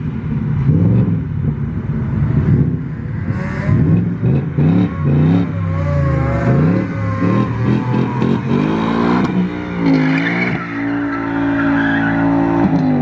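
Car engine revving hard, its pitch sweeping up and down over and over, then held steady at high revs for the last few seconds, with tyre squeal from a burnout.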